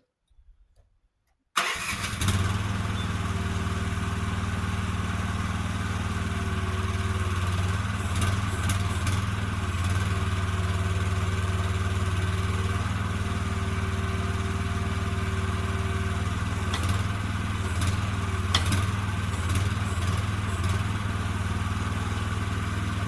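A vehicle engine running steadily, cutting in abruptly about a second and a half in, with a few light knocks and rattles over it.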